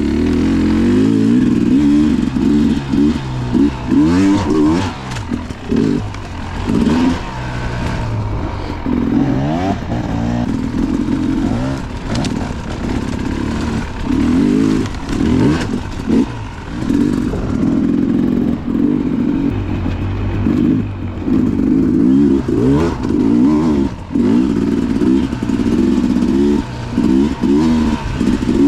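Off-road dirt bike engine revving up and down over and over as the throttle is opened and closed on rough ground, with clattering knocks from the bike.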